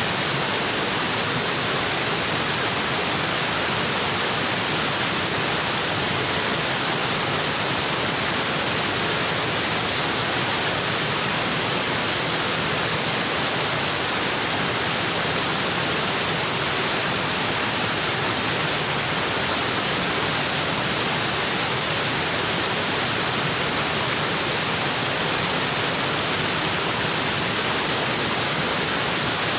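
Waterfall pouring onto rocks: a steady, even rush of water.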